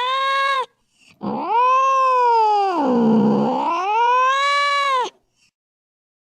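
Domestic cat yowling: one call ends just under a second in, then a long drawn-out yowl of about four seconds swoops down, up, down and up again in pitch before breaking off.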